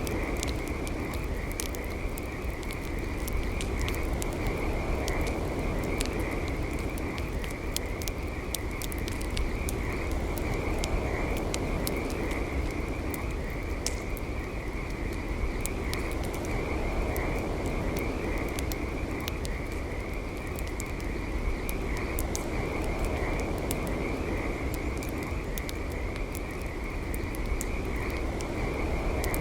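Campfire crackling with frequent sharp pops, over a steady, high, trilling chorus of frogs.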